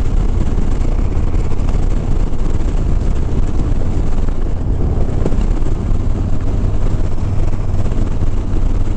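Harley-Davidson Sport Glide's V-twin engine running steadily at highway cruising speed, with wind rushing over the microphone.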